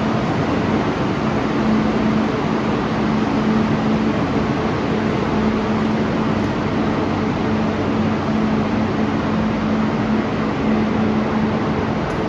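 Train running steadily: an even rushing noise with a constant low hum.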